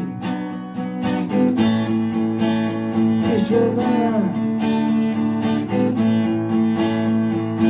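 Acoustic guitar strummed in chords under a slow sung song, with one sung phrase about halfway through.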